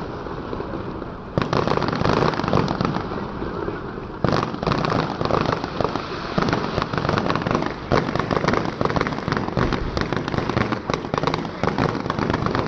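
Festival fireworks display: shells bursting in quick succession over dense crackling. A sharp jump in loudness comes about a second and a half in, and another about four seconds in.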